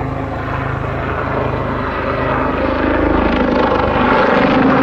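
Westland Lynx helicopter's engines and rotor running in flight, a steady drone that grows gradually louder.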